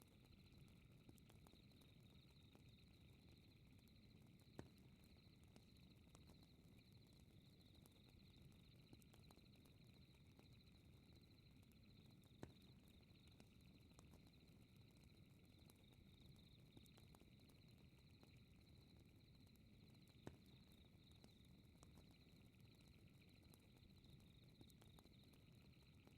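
Faint fireplace ambience: a low steady fire rumble with sparse small crackles and three sharper pops, under a steady high chirring of night insects.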